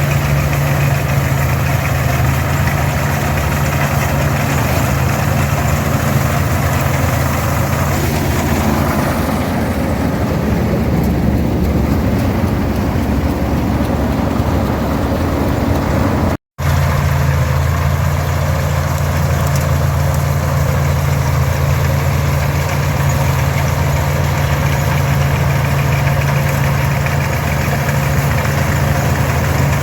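Farmall 460 diesel tractor's six-cylinder engine running steadily while pulling an International 82 combine harvesting oats, with the combine's machinery mixed in. The low engine note eases and the sound turns rougher for several seconds in the middle, and the audio cuts out for an instant about 16 seconds in.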